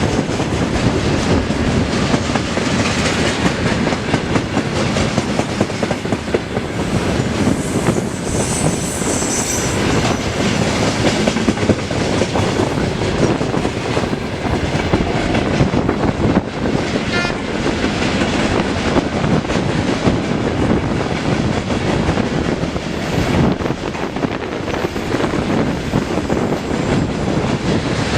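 Freight train wagons rolling steadily past, the wheels clattering over the rail joints.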